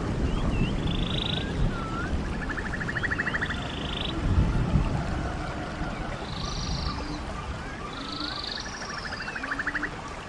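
Stream water running steadily, swelling briefly about halfway through. Over it come repeated buzzy, pulsed trills about a second long, higher-pitched calls and short rising chirps.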